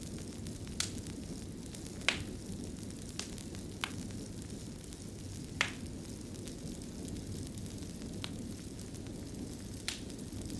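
Fire in a fireplace crackling: a steady low rumble of flames with sharp, single pops every second or two.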